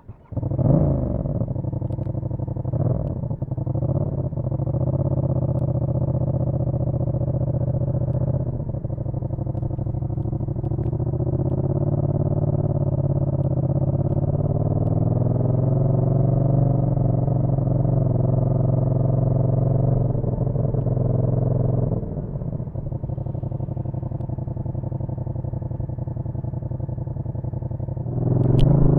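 Yamaha MT-07's parallel-twin engine starting up and settling into a steady idle, with a quick throttle blip about three seconds in. Near the end it revs up with rising pitch as the bike pulls away.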